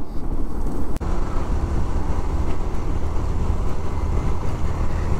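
Motorcycle engine running at road speed, with wind rushing over the microphone. The sound drops out for an instant about a second in.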